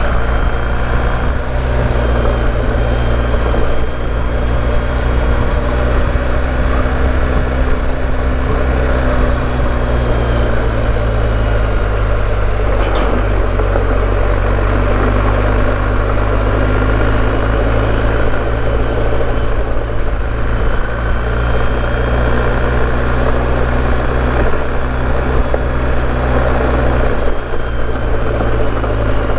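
BMW R1250GS boxer-twin engine running at a steady cruising pace, with tyre noise from riding a gravel track. The engine's pitch dips slightly about ten seconds in.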